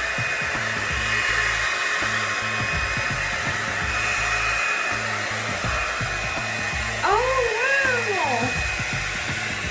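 Revlon One-Step hot air brush dryer running steadily on its low setting, the steady whir of its fan blowing. About seven seconds in, a brief pitched sound rises and falls over it.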